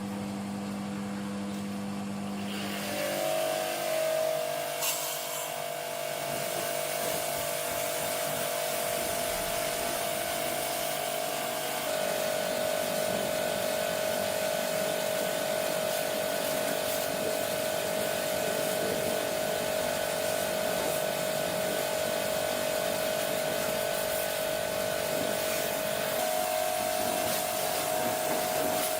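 A machine running steadily: a whine over a hiss, its pitch stepping up about three seconds in and shifting slightly a couple of times after.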